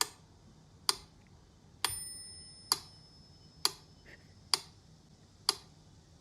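Evenly spaced sharp ticks, a little more than one a second, like a clock ticking. About two seconds in, one tick is followed by a short bell-like ring.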